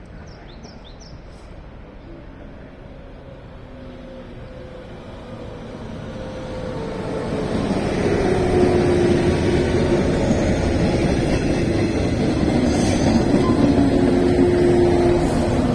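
Two coupled 115 series electric multiple units approaching and pulling into the station, growing louder about halfway through, then loud and steady: a rumble of wheels with a few held tones over it.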